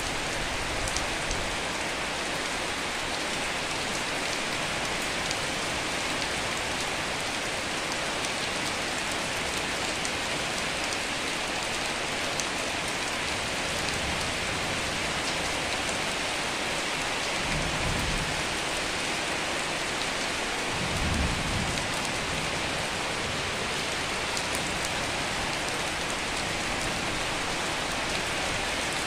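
Steady rain falling, with two low rumbles of thunder a few seconds apart a little past the middle.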